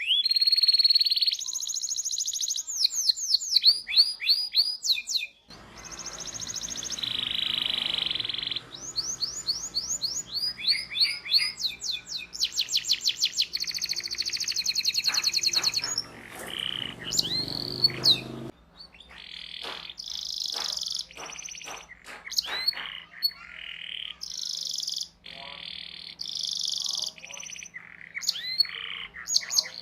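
Domestic canary singing: long rolling trills and fast repeated 'cuit cuit' chirp phrases, high-pitched and nearly continuous. A low background hum underneath shifts abruptly twice, about five and eighteen seconds in.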